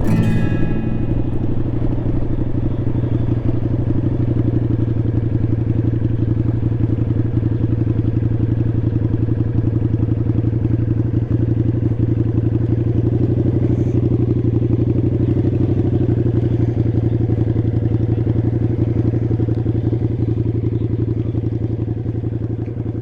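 Motorcycle engine running at a steady speed, its low, even exhaust pulse unchanging.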